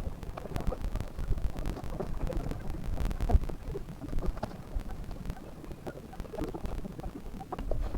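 Wind buffeting the microphone: an uneven low rumble with scattered small clicks.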